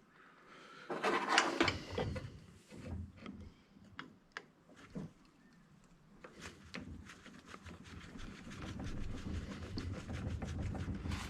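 Hand disassembly of an old electric angle grinder: scattered clicks and clinks of tools and metal parts being handled, then a steadier scraping with rapid small clicks in the second half.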